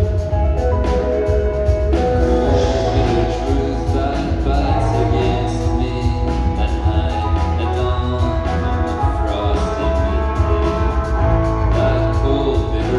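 Rock band playing live, a lead vocal singing over the full band with strong bass and drums.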